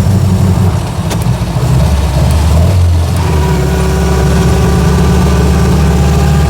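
1924 Austin Seven's small four-cylinder side-valve engine running, heard from inside the car. There is a short click and a dip in the engine note about a second in. The engine then picks up and settles into a steady running note.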